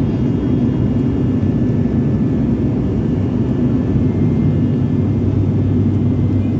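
Steady drone of an airliner's engines and airflow heard inside the passenger cabin in flight, deep and even with a few faint high steady tones above it.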